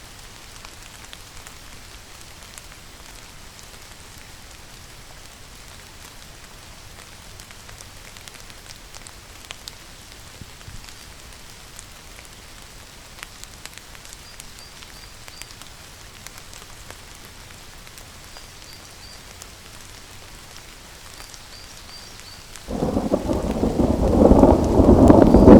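Steady rain falling, with faint high chirps in groups of three now and then. About 23 seconds in, a sudden loud crack of thunder breaks in and rumbles on.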